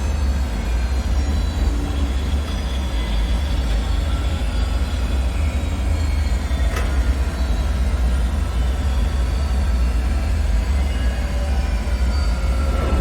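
Dark, eerie ambient drone: a steady deep rumble with faint high tones slowly sliding in pitch, and a single sharp tick about seven seconds in.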